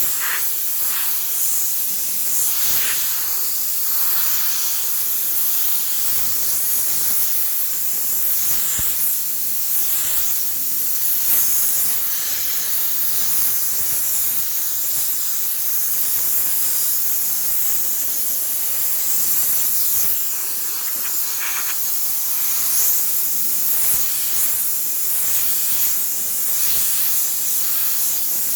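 Steam cleaner jetting steam from its nozzle, a steady high hiss that rises and dips a little as it sprays.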